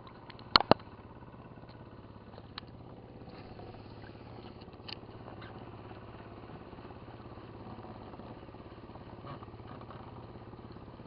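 Small boat engine idling steadily, with two sharp knocks about half a second in and a few light clicks later.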